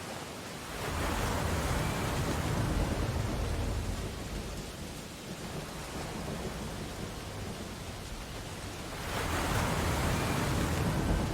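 Ocean surf washing onto a beach: a wave breaks and rushes in about a second in, falls back to a steady wash, and a second wave breaks near the end.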